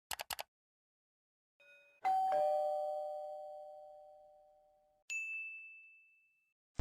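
Two-note doorbell chime, a higher note then a lower one (ding-dong), ringing out and fading over about three seconds. It follows a few quick clicks, and about a second after it ends comes a click and a single high tone held for about a second and a half.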